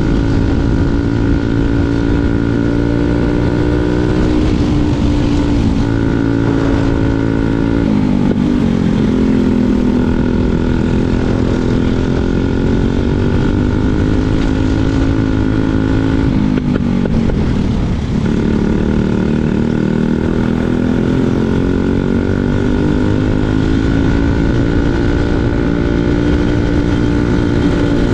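Briggs & Stratton 206 four-stroke single-cylinder kart engine running hard on track, heard on board; its pitch falls twice, about a third and two-thirds of the way through, and climbs back up each time as the kart slows and accelerates again.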